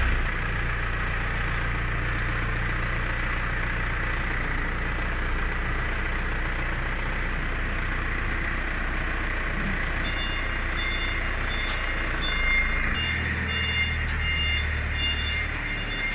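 Steady machine running noise, a low hum with a hiss, switched on just before. Faint short high tones repeat from about ten seconds in.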